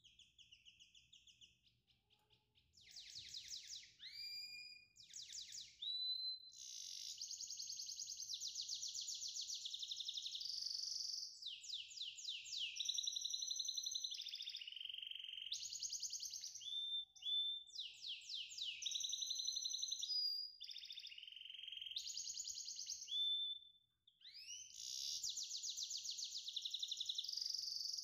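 A songbird singing in long, almost unbroken phrases of high whistles, rapid trills and quick sliding notes, starting a couple of seconds in and pausing briefly near the end.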